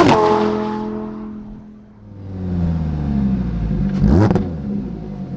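Lamborghini Huracán EVO's 5.2-litre V10 through its Performante-derived exhaust. The revs fall away from a high point and go quiet about two seconds in, then climb again under acceleration. A sharp crack comes about four seconds in, and the engine then settles at a lower, steady pitch.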